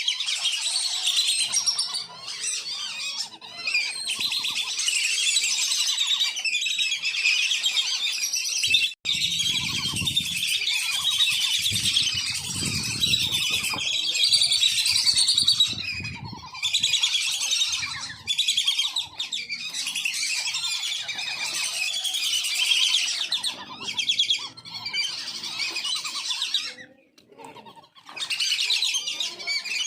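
Wandering whistling ducks calling almost without pause in a dense stream of high whistles and twitters, broken by a short lull near the end. A low rumble sits under the calls in the middle.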